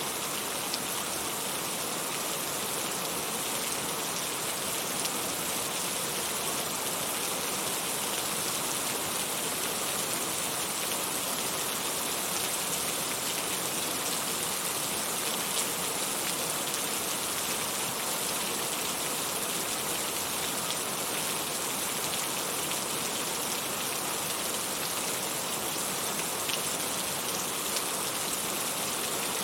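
Heavy rain falling steadily, with the odd sharper drop tick standing out now and then.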